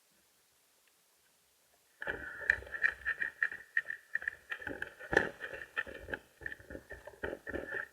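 A flightless bird calling loudly for about six seconds, starting about two seconds in: a steady high note overlaid with a rapid, irregular rattle of sharp pulses.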